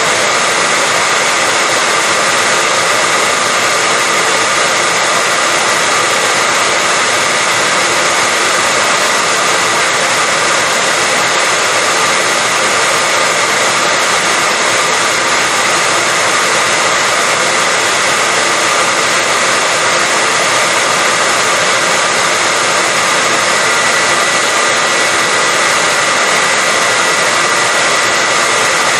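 Hair dryer running continuously at a steady speed: a loud, even rush of air with a faint steady whine from its motor, played as white noise to lull a baby to sleep.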